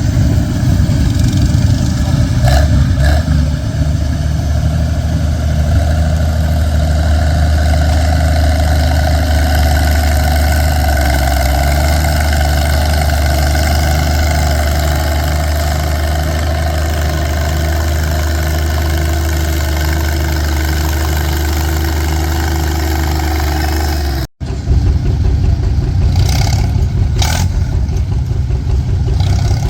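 Antique farm tractor engine running steadily under load while pulling a weighted stone boat. The sound cuts out abruptly about two-thirds of the way through, then comes back as a rougher engine sound with a few sharp clicks.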